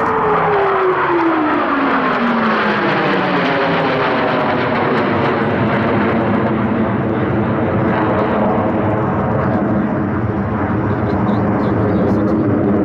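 Blue Angels F/A-18 Hornet jets flying past, their engine tone dropping in pitch over the first few seconds as they go by, then a loud, steady jet roar.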